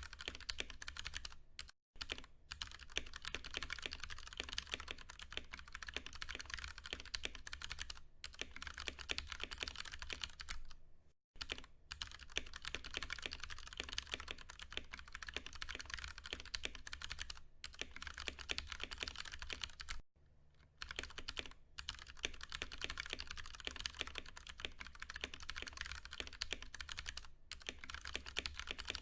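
Steady, rapid typing on a Ducky One 2 Mini mechanical keyboard with Cherry MX Brown tactile switches: a dense run of key clacks, broken by a few short pauses.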